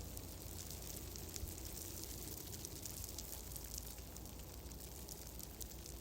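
Fireplace fire crackling: a steady run of small irregular crackles and pops over a low steady rumble.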